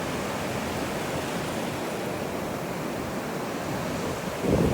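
Ocean surf washing steadily on the beach, with a louder rush near the end.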